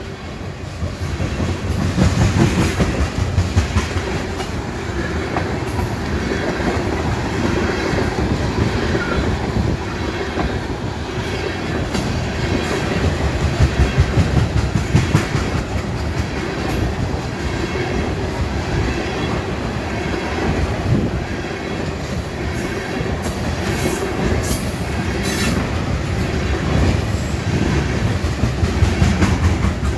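Freight train of steel tank cars rolling past close by: a steady rumble of wheels on rail with the clickety-clack of the wheels over rail joints, and sharp clicks and brief high wheel squeals now and then.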